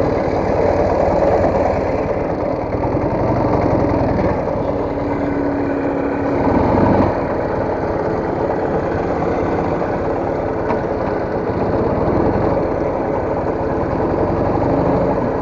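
Soviet motorcycle engine running steadily at low revs, with a brief swell in level about six to seven seconds in.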